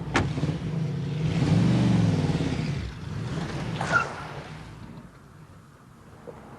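Car engine accelerating, its pitch rising and then falling as it grows louder and then fades away. A sharp click comes just after the start and another about four seconds in.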